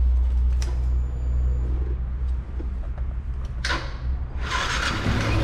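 Yamaha FZ single-cylinder motorcycle engine being started: a click, then the starter cranks near the end and the engine catches and settles into a steady idle. The stator's charging leads are unplugged, which takes away the magnetic pull at the flywheel and changes the engine's noise.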